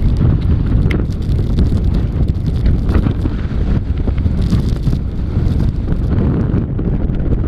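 Strong wind buffeting the microphone: a loud, steady low rush that barely lets up.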